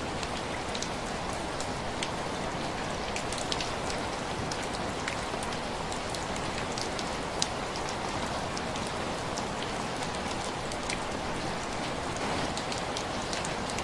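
Heavy rain falling in a steady, even hiss, with many small sharp ticks and clicks scattered through it.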